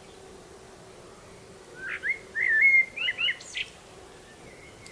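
A songbird singing one short phrase of quick warbled whistles about two seconds in, ending in a couple of thin, high rising notes.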